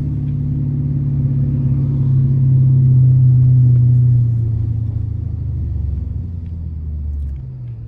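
Dodge R/T's V8 exhaust rumbling, swelling to its loudest about three to four seconds in and then easing off, with the deepest part of the rumble dropping away near the end.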